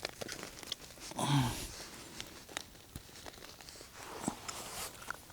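Hands handling a freshly caught fish to unhook and release it: scattered small clicks and light rustles, with a short grunt about a second in.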